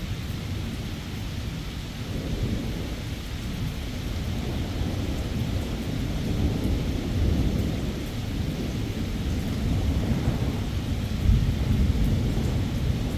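Thunderstorm: steady rain falling, with low rolling thunder that builds and grows louder through the stretch.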